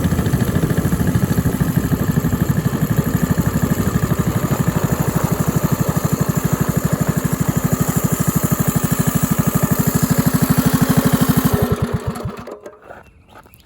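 Minibike's small engine idling steadily, then slowing and stopping about twelve seconds in.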